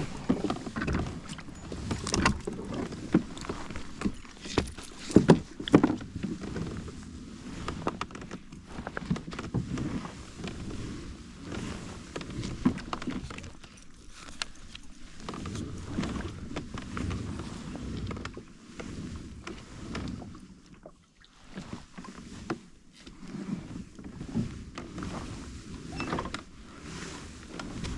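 Irregular knocks, clicks and handling noise from a fishing kayak, with water sounds against the hull; a few louder knocks come about five seconds in.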